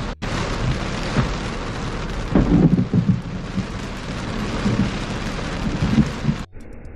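Heavy rain with rolling thunder, the rumble swelling about two and a half seconds in and again near the end. About six and a half seconds in, the sound cuts off abruptly to a quieter, muffled hiss.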